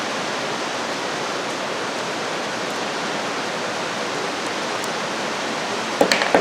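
Steady hiss of heavy rain. Near the end, a few sharp clicks as the spring clip goes onto the ratchet head.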